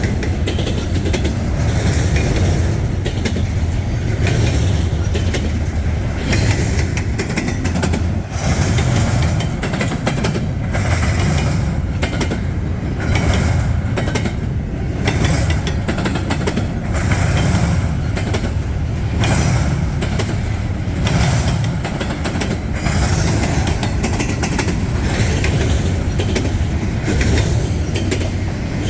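Freight train rolling slowly past, a steady low rumble with frequent clanks and clicks from the cars.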